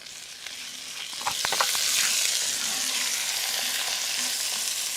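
Onions, carrot, broccoli and baby corn sizzling in hot oil in a pot as they are stirred, the wet vegetables making the oil spit. A few sharp knocks of the stirring utensil against the pot about a second in, then the sizzle swells and holds steady.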